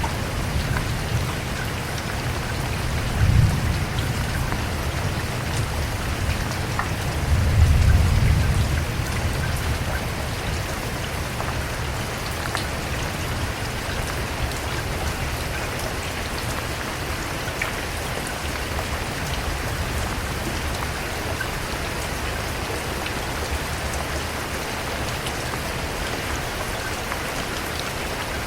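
Steady rain falling, a dense even hiss with scattered drop ticks. Two low rumbles rise over it, a short one about three seconds in and a longer one around eight seconds in.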